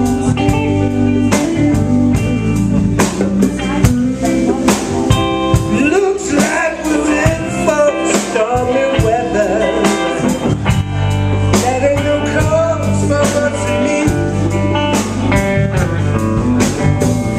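Blues-rock band playing an instrumental break: a lead guitar line with bending notes over bass and a steady drum beat.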